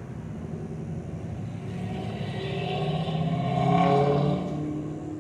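A car driving past, its engine growing louder to a peak about four seconds in and then fading.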